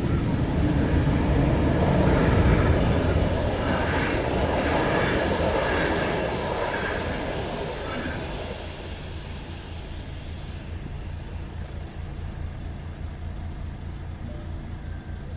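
Railway wagons rolling past over a level crossing, loudest about two seconds in and fading away from about six seconds in. A car engine idles underneath, heard from inside the car, and is left on its own as low, even pulses once the train has gone.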